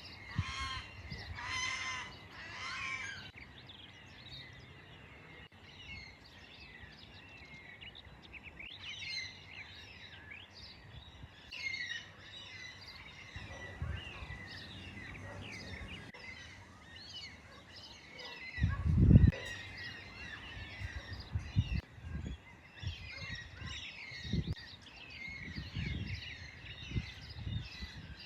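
Crows calling, three loud caws close together in the first few seconds, over steady chirping of small birds. Low thumps come in later, the loudest about two-thirds of the way through.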